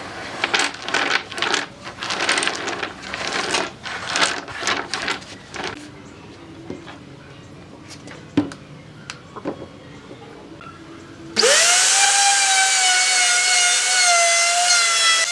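Irregular knocks and scrapes of hand work on wood, followed about eleven seconds in by a small electric power tool switching on and running with a loud, steady whine.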